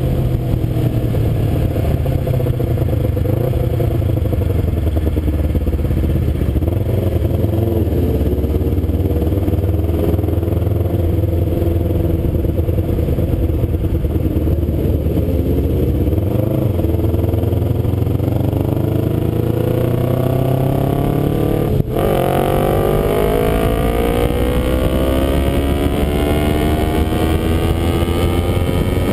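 Kawasaki Ninja 250 parallel-twin engine running on the road with wind rush. About three-quarters of the way through there is a brief dip, then the engine pitch climbs steadily as the bike accelerates.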